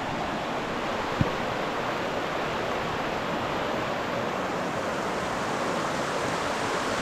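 Mountain river rushing steadily, an even hiss of running water. A single brief low knock about a second in.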